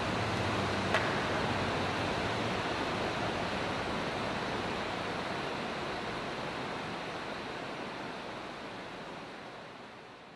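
Steady rain, an even hiss, with a light click about a second in; the rain fades out toward the end.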